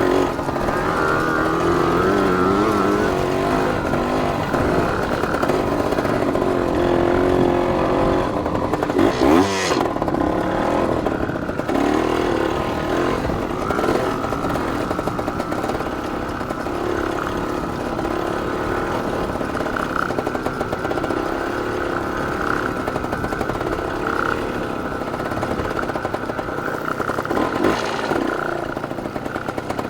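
Yamaha TY250 two-stroke dirt bike engine running under a rider, its revs rising and falling with the throttle. There is a brief rattle about nine seconds in.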